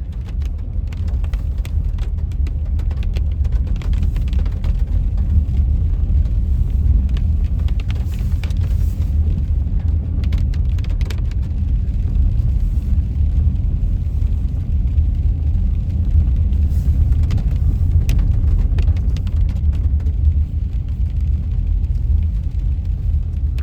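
Road noise heard from inside a car driving on a wet road: a steady low rumble with scattered light ticks and clicks throughout.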